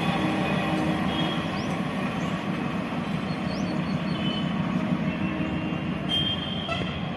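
Passenger express train rolling along the rails, a steady rumble that slowly fades.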